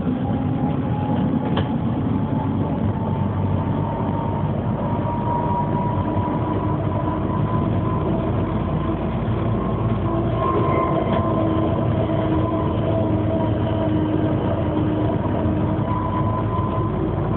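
Bombardier TVR rubber-tyred tram running on its electric motors, the traction motor whine rising slowly in pitch as it gathers speed, then holding steady, over a constant rumble.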